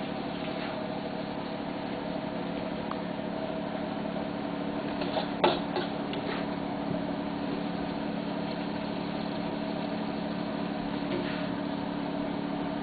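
Steady hum of a kitchen fan running, with a sharp clink of a serving utensil on the wok or plate about five and a half seconds in and a few lighter knocks around it.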